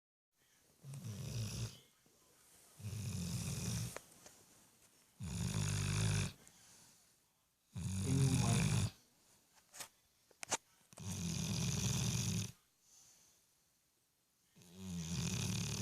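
Pit bull puppy snoring in deep sleep: six snores about every two to three seconds, each roughly a second long. A few short clicks fall in the longer pause after the fourth snore.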